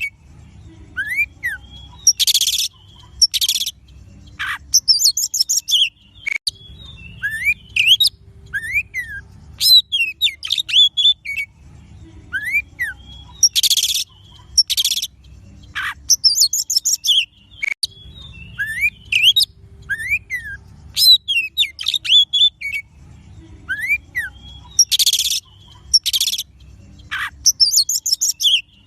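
Oriental magpie-robin (kacer) song: varied whistled phrases of rising and falling notes, quick high twitters and short harsh rasping calls, the sequence repeating about every eleven seconds.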